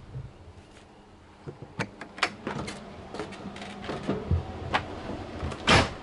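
Irregular knocks, clicks and clattering of wood and metal as the box truck camper's interior is worked on for demolition, with a louder scraping clatter near the end.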